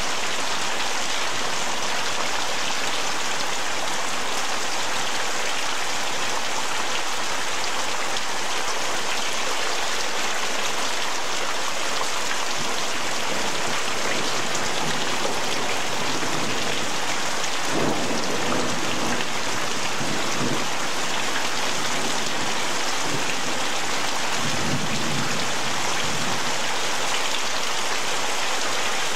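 Heavy rain pouring steadily onto a paved patio and surrounding trees: a dense, even hiss, with two short low rumbles in the second half.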